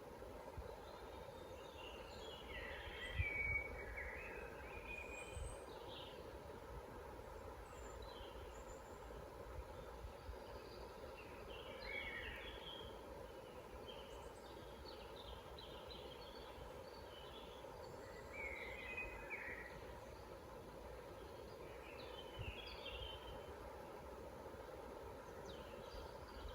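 Forest birds singing in short, scattered phrases of chirps and warbles, a few seconds apart, over a steady faint background hum.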